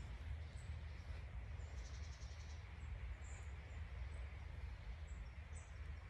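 Forest ambience: small birds giving short, high chirps here and there, with a brief rapid trill about two seconds in, over a steady low rumble.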